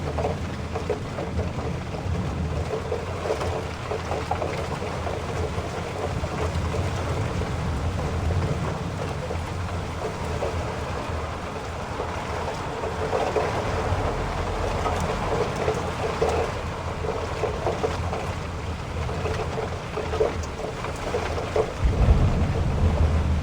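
Heavy rain falling steadily, with a low rumble beneath it that swells briefly near the end.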